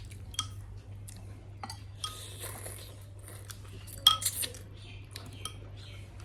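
Metal spoon clinking and scraping against a dish while eating, in scattered light taps with a louder cluster of clinks about four seconds in.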